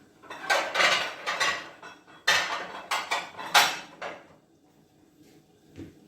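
Kitchen dishes and utensils clattering and scraping in a string of bursts over about four seconds, then a single soft knock near the end.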